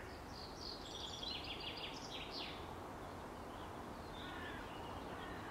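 Faint birds chirping over a steady outdoor hiss, a calm nature ambience; the chirps come in a busy cluster in the first half and again near the end.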